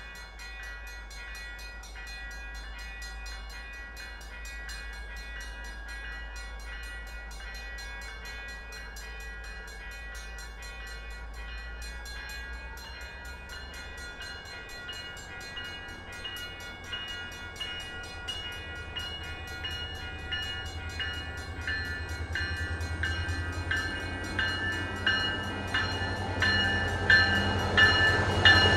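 An MBTA F40PH-2C diesel locomotive leading a passenger train approaches. Its engine rumble and the clatter of its wheels grow steadily louder, with a sustained high-pitched tone over them throughout.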